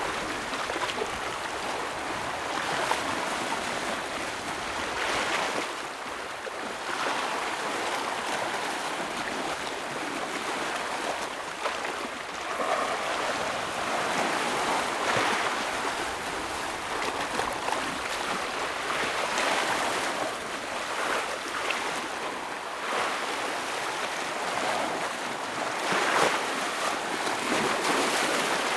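Ocean waves breaking and washing against rocks: a continuous rush of surf that swells every few seconds, with brief louder splashes.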